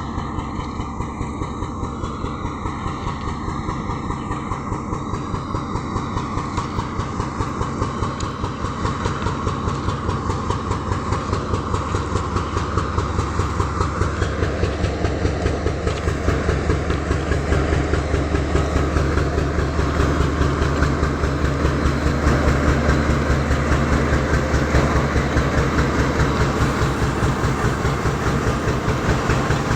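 Indian Railways WDG4G diesel locomotive running loud and steady: the jet-like whine of its turbocharger sits over a fast, even engine pulse and a deep drone. The whine rises about halfway through, and the sound grows gradually louder.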